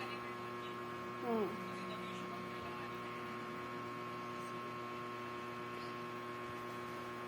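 Steady electrical hum made of several fixed tones. About a second in, a brief falling vocal sound is heard.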